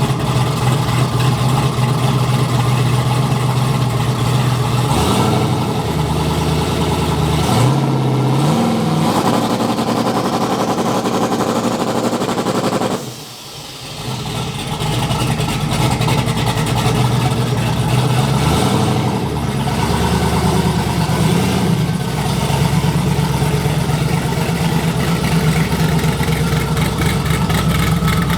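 Twin-turbo AMC Spirit's engine running at a held, raised speed. It steps up in pitch about 5 and 8 seconds in, dips briefly about 13 seconds in, then comes back up and holds steady.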